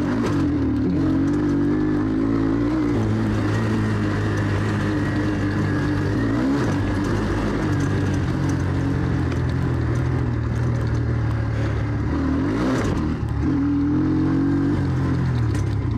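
Enduro motorcycle engine running under load as the bike is ridden downhill, its revs rising and falling, with a brief drop about thirteen seconds in.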